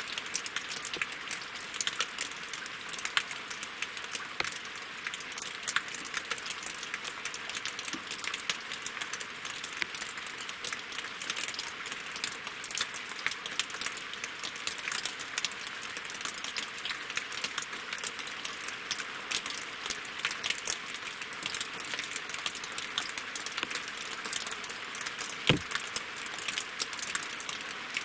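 Steady winter rain falling on lake water and wooden logs, a dense hiss full of sharp individual drop ticks. One heavier drop lands with a deeper knock near the end.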